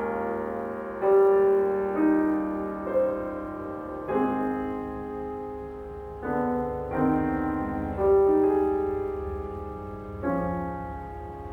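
Solo piano playing a slow, lyrical classical passage: notes and chords struck every second or two and left to ring and fade.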